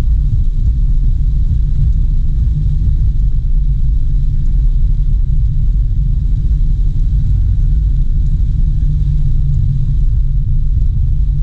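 Steady low rumble of a car driving, road and engine noise with little else above it.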